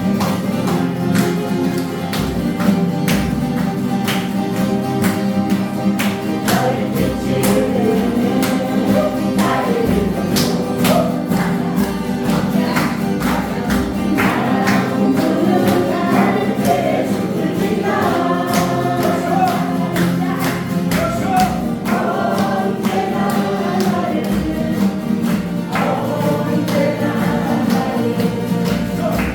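A group singing a song together over strummed guitars.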